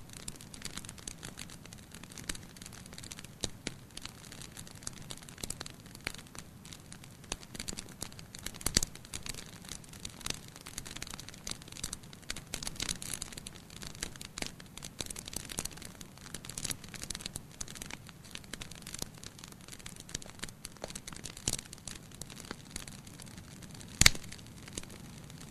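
Wood fire burning in a fireplace, crackling with many small snaps and pops over a soft hiss. The two loudest pops come about nine seconds in and near the end.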